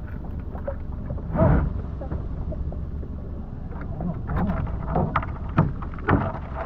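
Crabs being handled and measured on a boat: scattered clicks and knocks, a louder one about a second and a half in and a cluster near the end, over a steady low rumble.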